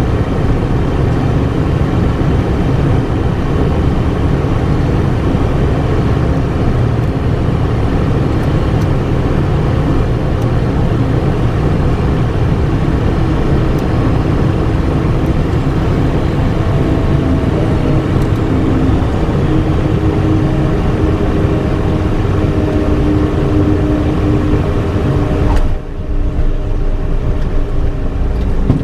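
A vehicle running steadily and loudly, with faint steady tones appearing in the second half and a brief drop in level near the end.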